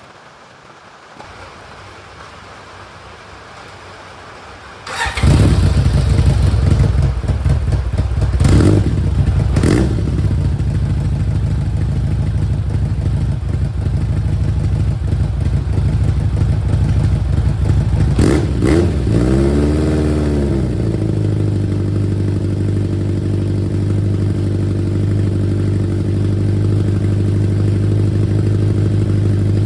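1991 BMW K1's inline-four engine, through a full aftermarket exhaust with its silencer (dB killer) fitted, starting about five seconds in, then blipped a few times and given one longer rev before settling into a steady idle.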